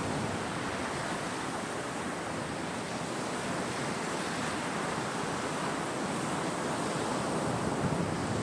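Sea surf: waves breaking and washing onto the shore in a steady rush.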